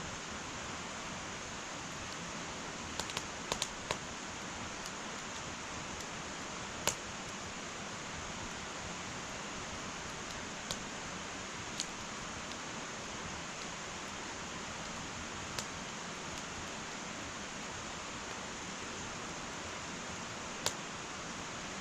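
Wood fire burning in an irori sunken hearth, with sparse sharp pops and crackles over a steady hiss: a quick cluster about three to four seconds in, then single pops every few seconds.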